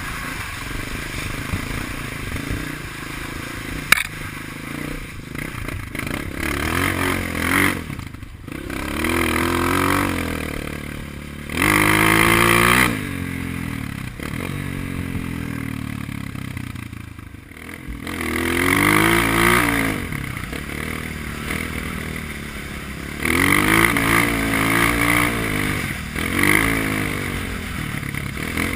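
Honda CRF230 dirt bike's single-cylinder four-stroke engine riding through mud, revving up and falling back again and again between lower-rev stretches. There is a sharp click about four seconds in.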